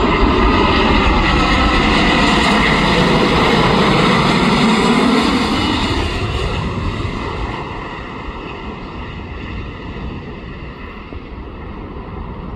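Jet airliner's engines, loud at first with tones gliding in pitch as it passes, then fading away from about six seconds in.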